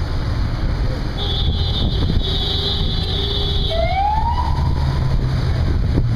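Police siren giving a short rising whoop about four seconds in, over a steady low rumble of traffic and wind.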